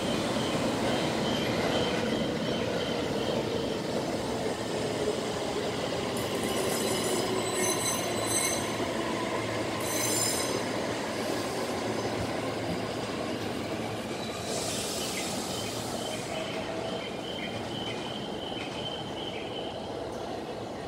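E531-series electric commuter train running past on curved track, its wheels squealing in flares. Under the squeal is a steady rumble of wheels on rail that fades toward the end as the train leaves.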